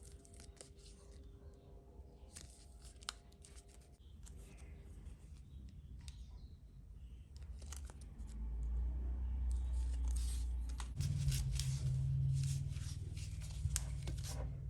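Handling of small kit parts and packaging on a work surface: scattered clicks and rustling, some of it like tearing or crinkling. A low steady hum starts about eight seconds in and gets louder about three seconds later.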